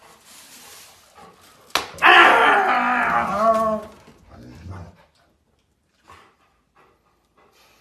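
A dog vocalising: after a sharp click, a loud drawn-out bark-like call with a bending, falling pitch lasts about two seconds, then fades to a few faint ticks.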